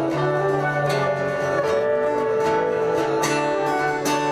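Instrumental break in a live acoustic song: strummed acoustic guitar under held melodic notes.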